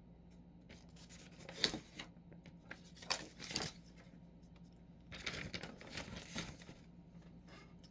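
Three short bursts of rustling and rubbing over a low steady room hum, about a second in, around three seconds in, and again from about five seconds in.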